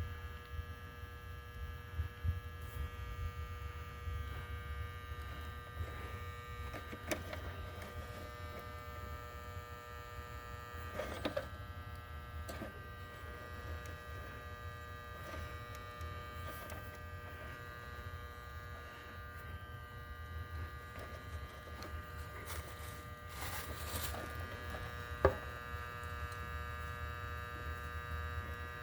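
Steady electrical hum and buzz from a running machine, with a few scattered clicks and knocks.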